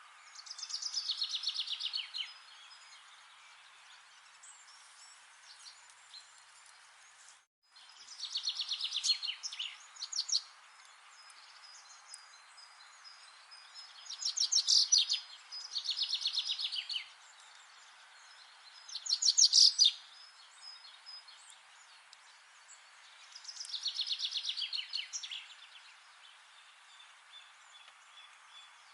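A songbird singing a fast, trilled phrase that falls in pitch, repeated six times with pauses of a few seconds between, over faint forest background hiss.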